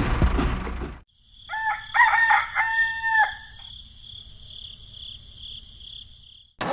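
A rooster crows once: a few short rising notes, then a long held note that drops off at the end. Before the crow, a small engine runs for about a second and cuts off abruptly. A steady high buzz carries on after the crow.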